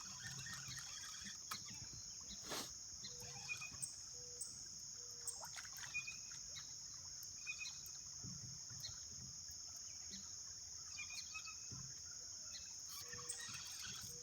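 Steady high-pitched drone of insects, with scattered short bird chirps and an occasional faint knock.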